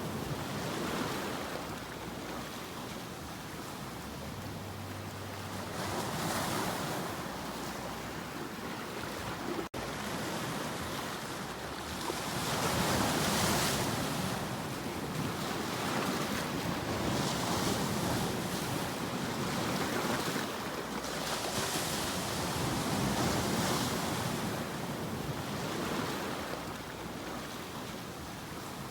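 Ocean waves breaking continuously, the surf swelling and ebbing every couple of seconds, with a momentary break in the sound about ten seconds in.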